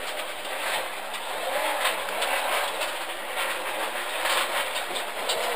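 Mitsubishi Lancer rally car's engine running as the car drives over rough ground back up toward the road after going off, heard from inside the cabin.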